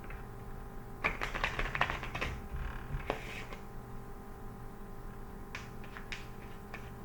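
Tarot cards being handled and shuffled: a quick flurry of papery clicks about a second in, a short rustle, then a few light taps near the end.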